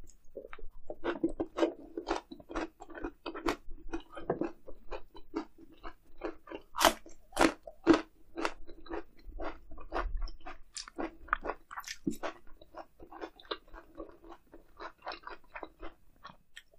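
Close-miked chewing of grilled eel, a sharp crunch with each chew, about two or three a second, loudest around seven and eight seconds in.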